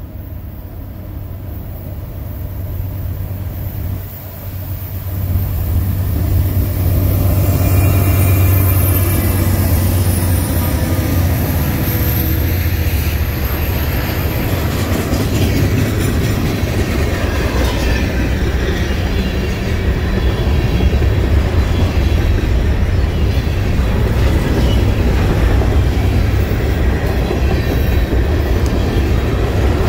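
Freight train passing close by: the diesel locomotives come up loud about five to seven seconds in, then a long string of freight cars rolls past with steady wheel and rail clatter.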